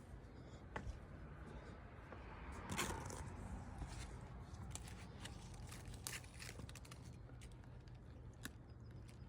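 Faint rustling of blackberry canes and leaves with scattered small clicks as berries are picked, and a brief louder rustle about three seconds in.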